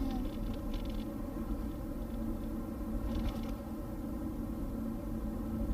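Steady road and engine noise inside a moving car's cabin, with a couple of faint rustles.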